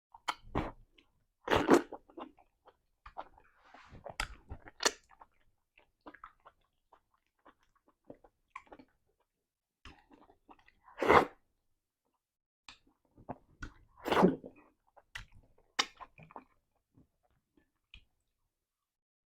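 Close-miked eating of eba and soup: soft chewing and wet mouth clicks, with three louder smacking sounds about a second and a half, eleven and fourteen seconds in.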